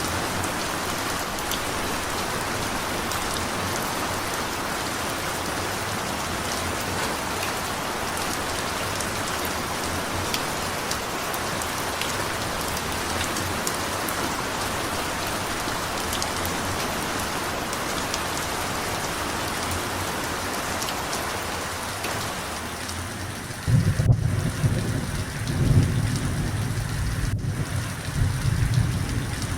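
Steady rain falling with an even hiss. Near the end it is overtaken by low, rolling thunder that rumbles in several loud surges.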